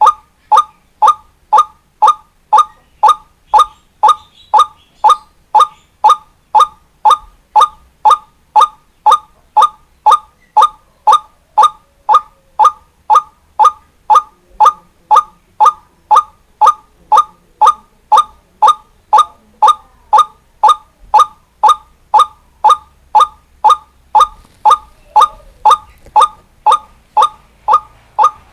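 White-breasted waterhen (ruak-ruak) calling, one short note repeated evenly about twice a second.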